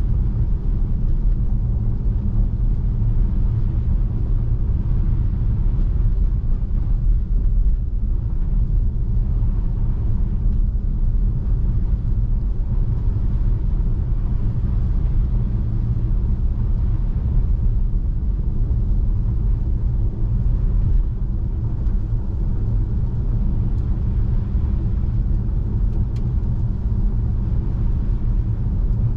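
Steady low rumble of a Tesla Model 3 driving on a snow-covered road: tyre and road noise with no engine sound, unchanging throughout.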